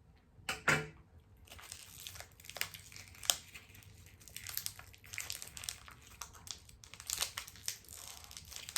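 Plastic packaging of a cooked salted duck egg crinkling and rustling as it is handled, a run of irregular crackles.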